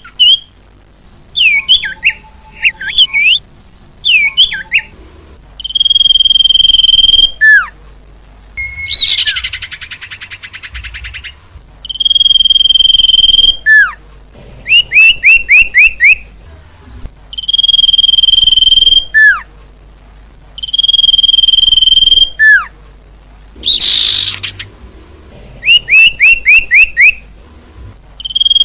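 Common iora (cipoh/sirtu) singing: a long, steady, high whistle repeated several times, each ending in a drop in pitch, alternating with quick runs of short down-slurred notes and a brief rasping rattle.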